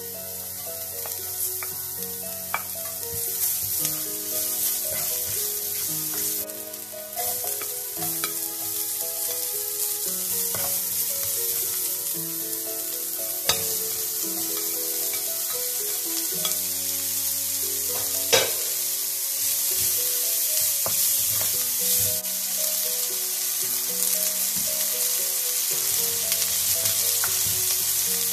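Chopped garlic, shallots and onion sizzling in hot oil in a frying pan as they are stir-fried, the sizzle growing louder as more goes in. A couple of sharp knocks about halfway through.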